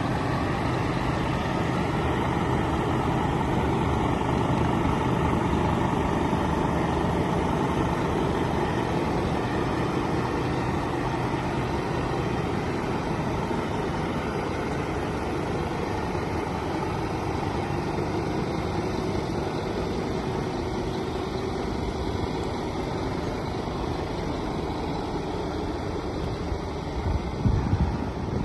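Scania P-series truck's diesel engine idling steadily. Wind buffets the microphone near the end.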